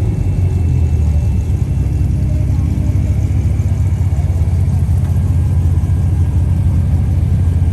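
Loud car engine running with a steady, low exhaust rumble, holding an even pace rather than revving.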